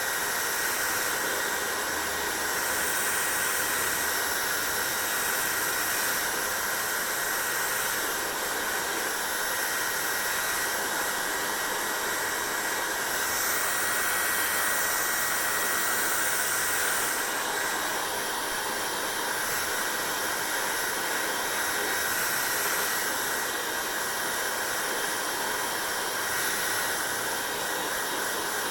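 Hair dryer running steadily: an even blowing rush with a thin, high whine held throughout, the rush swelling slightly a couple of times.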